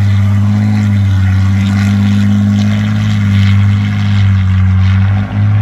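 Heavy diesel engine running hard with a loud, steady low drone that dips briefly about five seconds in.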